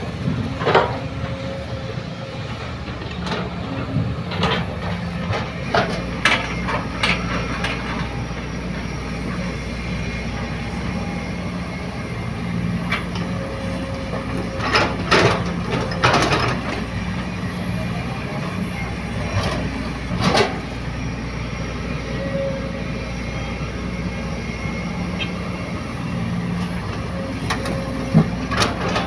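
Excavator's diesel engine running steadily under load while it digs and loads soil into a dump truck, with sharp metallic clanks and knocks every few seconds from the bucket and machinery.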